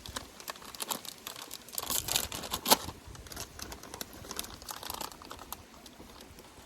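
Crinkling and crackling with many short sharp clicks, busiest in the first three seconds, with one loud click just under three seconds in, then thinning out.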